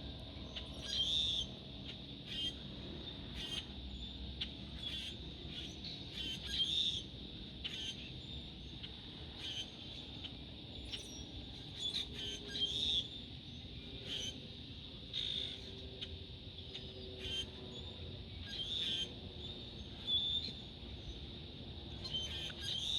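Birds chirping: short, sharp calls repeated every second or two over a faint low background rumble and a faint steady high tone.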